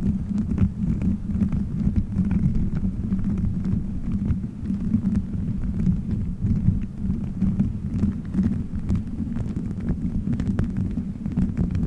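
Hands rubbing and squeezing a gummy-bear-shaped cover fitted over the microphone, giving a steady, muffled low rumble with faint scattered crackles.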